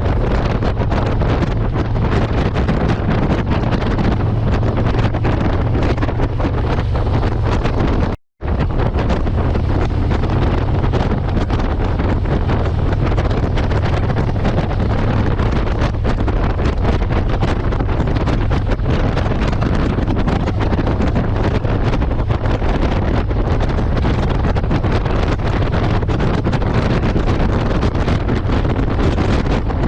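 Wind buffeting the microphone on a moving motorcycle, over a steady low engine drone. The sound cuts out for a split second about eight seconds in.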